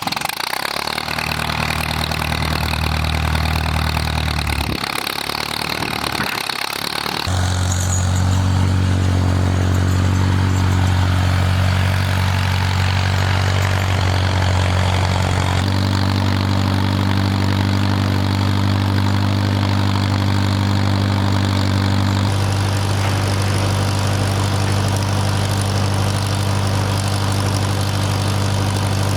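Farmall M tractor's four-cylinder engine running, low and even at first, then throttled up about seven seconds in and holding a steady, faster note, which steps slightly twice more later on.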